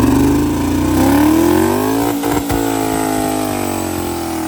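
Car engine revving: the pitch climbs over the first couple of seconds, holds high with a few sharp pops around the middle, then falls away near the end.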